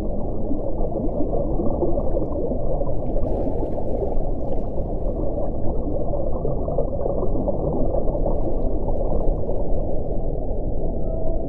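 Steady, deep wind noise, low in pitch and without any tone, with faint brief higher gusts whooshing over it a few seconds in and again later.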